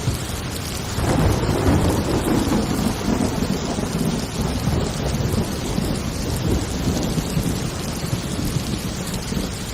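Heavy rain falling steadily during a thunderstorm, with a long roll of thunder that swells about a second in and slowly rumbles away toward the end.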